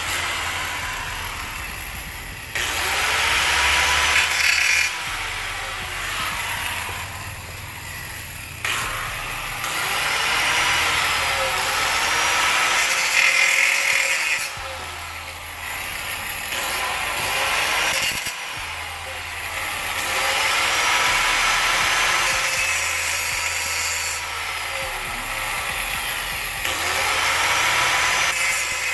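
Steel exhaust pipe being cut through to remove a clogged catalytic converter. The cutting comes in spells of a few seconds at a time, with short pauses between.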